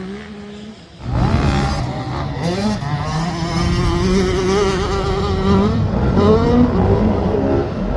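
Two-stroke 85cc motocross bike engine revving, its pitch rising and falling as the rider works the throttle. It jumps to much louder and closer about a second in.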